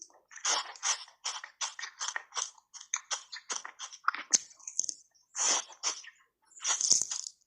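Close-up chewing of crunchy button-shaped ice cubes coated in matcha powder: a quick run of sharp crunches, about two or three a second, with a couple of short pauses.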